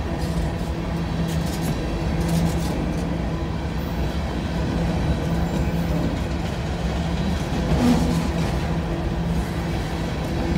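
Empty coal hopper cars rolling past on steel wheels: a steady rumble of wheels on rail with a low hum, and a few sharp clicks and clanks from the cars.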